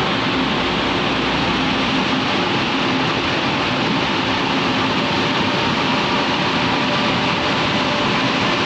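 Taiwan Railway train running past a station platform, a steady rumble of wheels on rail with a faint hum from its motors.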